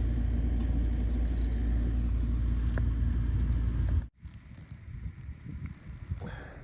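Strong wind buffeting the microphone, a loud steady low rumble. About four seconds in it cuts off abruptly, leaving a fainter, gusty rumble.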